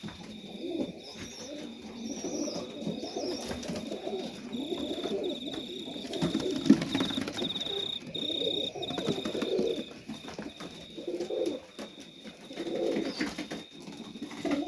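Serbian highflyer pigeons cooing in their loft, several birds overlapping in repeated low coos that swell and fade in clusters.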